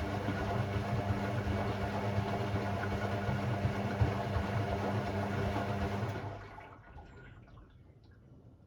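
Hoover AI130 washing machine moving water with a steady electric hum under a rushing, water-like noise that stops about six seconds in.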